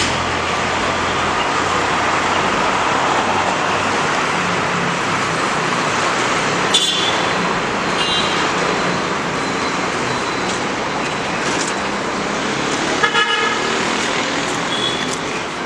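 Steady road traffic noise with vehicle horns honking: short toots about 7 and 8 seconds in, a louder honk about 13 seconds in, and another short one near the end.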